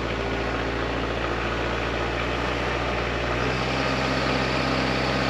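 Kubota tractor's diesel engine idling steadily, warming up after a cold start in freezing weather.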